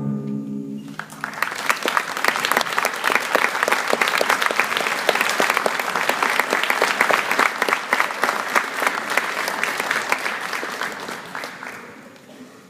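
The last held chord of a school wind band dies away, and an audience breaks into applause about a second in, fading out near the end.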